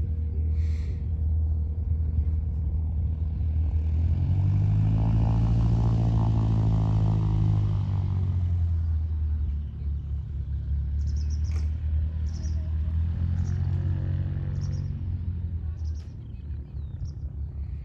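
Light propeller aircraft engine droning as it passes, swelling to its loudest about five seconds in and fading, then briefly rising again.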